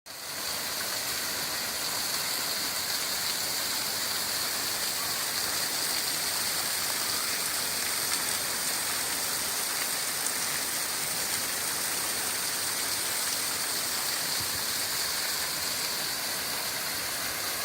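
Mallyan Spout waterfall: water falling and splashing in a steady rushing hiss that never lets up.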